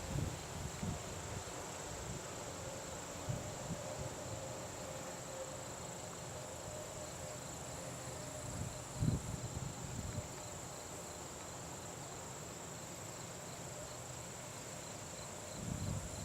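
Crickets trilling steadily in a high, continuous chorus, with a few soft low thumps.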